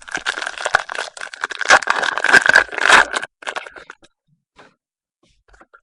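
A trading-card pack's wrapper being torn open and crinkled, a crackling rustle that stops about three seconds in.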